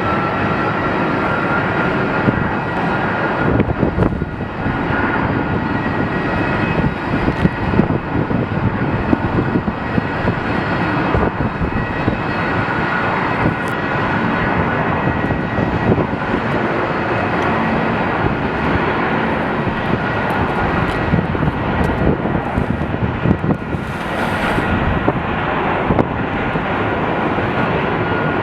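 Jet airliner engines running loud and steady: a dense rush of noise with a high, steady whine over it.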